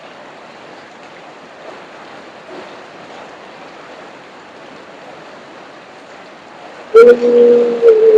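Steady hiss of rain and running rainwater. About seven seconds in, a loud, held, wailing call in a child's voice cuts in and lasts about a second.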